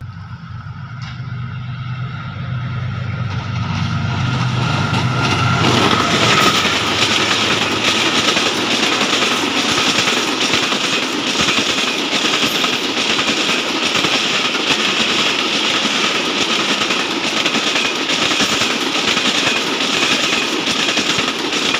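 Diesel-hauled passenger express approaching, its locomotive's engine drone growing louder over the first few seconds. From about six seconds in, the coaches pass close by at speed with a steady loud rush and rapid wheel clatter over the rail joints.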